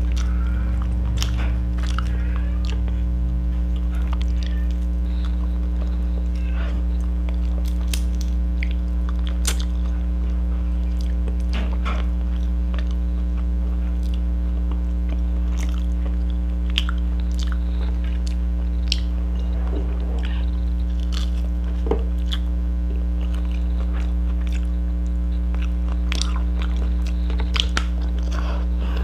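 Close-up mouth sounds of a person eating: chewing and biting with scattered short smacks and clicks. A steady low electrical hum runs underneath.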